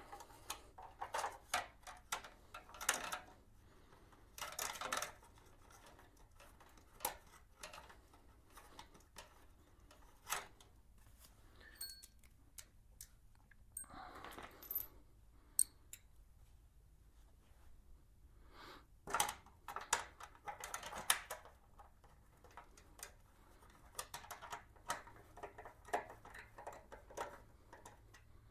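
Light metallic clinks and rattles of small bolts and hand tools being handled, in scattered clicks with a few short clattering bursts.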